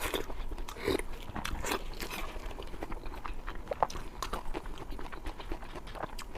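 A person chewing and biting food close to the microphone, with irregular wet smacking and clicking mouth sounds.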